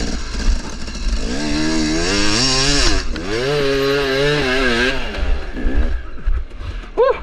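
KTM 300 two-stroke dirt bike engine revving as the bike is ridden off, its pitch climbing and dropping twice before it fades out near the end.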